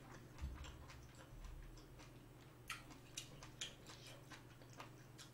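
Close-miked chewing of a mouthful of spicy steamed seafood with the mouth closed: faint, scattered wet mouth clicks, several sharp ones about three to five seconds in. A soft low bump about half a second in.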